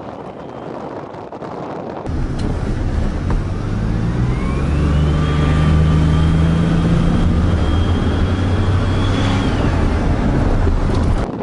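A motor vehicle engine running loudly, with a whine that climbs over a couple of seconds, holds steady, then drops near the end. The sound starts suddenly about two seconds in and cuts off just before the end.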